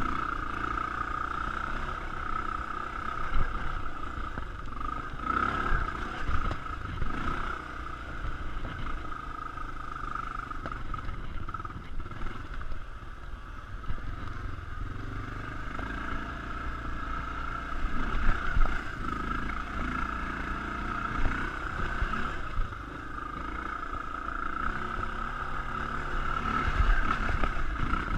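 Honda XR650L's single-cylinder four-stroke engine running as the bike pulls up a steep, rocky trail, with sharp knocks and clatter now and then as it jolts over rocks. The loudest knocks come about three seconds in and again about two-thirds of the way through.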